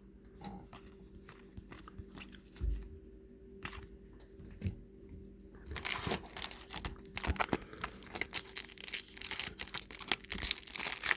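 Foil trading-card pack wrapper being torn open and crinkled, with cards handled: sparse small clicks at first, then busier crinkling and tearing from about halfway through.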